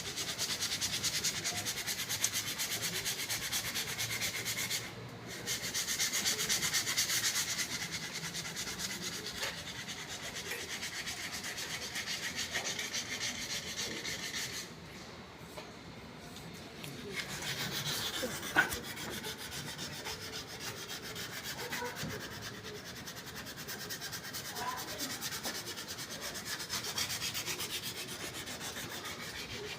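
Continuous rasping of something being rubbed or sanded against a hard surface during construction work. It drops out briefly twice, about five seconds in and for a couple of seconds around the middle, and there is a single sharp tap partway through.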